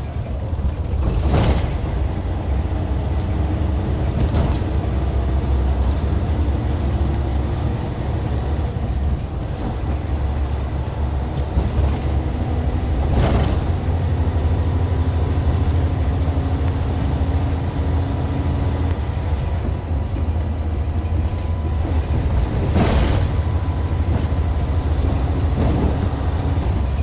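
Inside the cabin of a Hyundai Universe Comfort bus, its Hyundai D6CC Powertec 380 straight-six diesel runs steadily under way with a heavy low rumble and road noise. A few sharp knocks come through, about a second and a half in, at about four seconds, at about thirteen seconds and at about twenty-three seconds.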